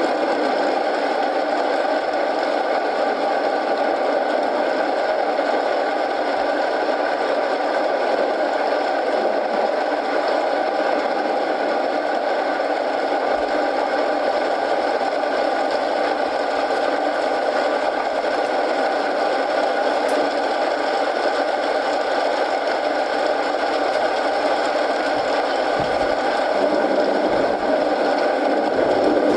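Rain and a fireplace mixed together as a steady, even hiss.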